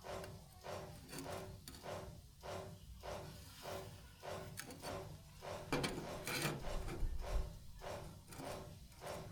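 Rhythmic hand-worked scraping strokes, a little over two a second, with a faint ring to each stroke. A louder knock about six seconds in.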